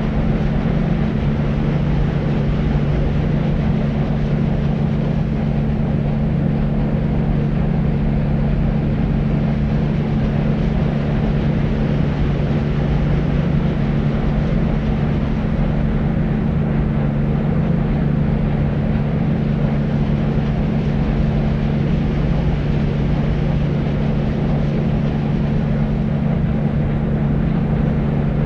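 Deep white noise for sleep: a steady, unbroken low rushing hiss, heaviest in the bass with a dull hum-like band and little treble.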